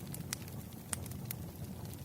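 Burning firewood crackling, with a few sharp pops over a low, steady rumble of the fire.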